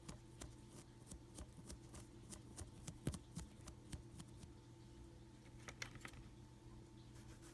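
Faint, irregular little clicks and scratches of a paintbrush being dry brushed over a Hydrocal plaster rock casting, over a steady low electrical hum.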